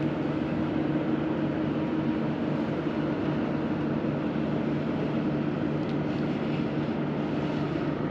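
An engine running at a steady speed, an even low drone that does not change in pitch.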